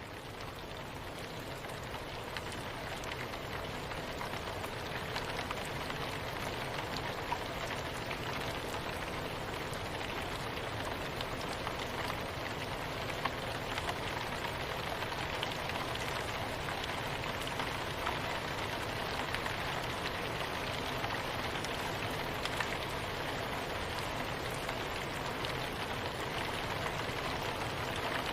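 Steady soft rain falling, a dense even hiss with scattered individual drop ticks, swelling slightly over the first few seconds and then constant.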